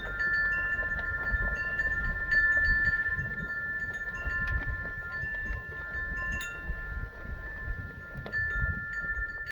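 Wind chimes ringing, with several notes sounding and overlapping and new strikes coming every fraction of a second, over a low, uneven rumble.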